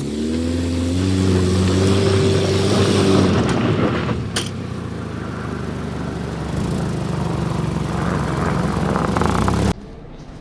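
Car engine revving up, its pitch rising over the first second and holding steady for a few seconds, then running on as a steadier engine and road noise. A sharp click comes about four seconds in, and the sound cuts off abruptly near the end.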